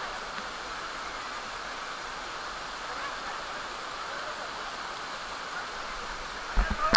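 Steady rushing of monsoon waterfall water. A couple of short low bumps come near the end.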